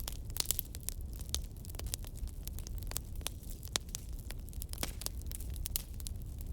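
Fireplace fire crackling: irregular sharp pops and snaps, several a second, over a low steady rumble.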